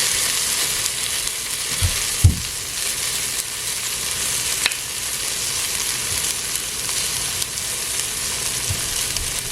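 Sliced okra frying in vegetable oil, a steady sizzle, with a couple of dull knocks about two seconds in.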